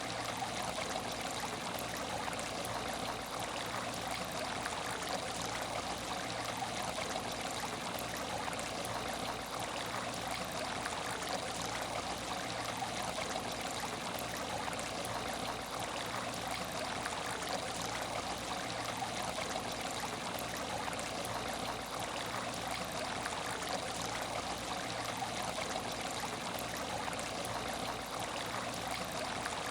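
Water in an empty aquarium tank running in a steady, even trickle, with no breaks or changes.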